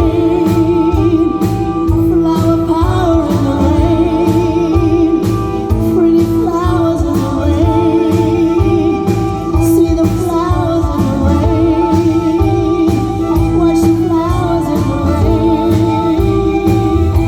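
Live band playing the song's closing stretch: a steady drum beat under a wavering, vibrato-laden melody line.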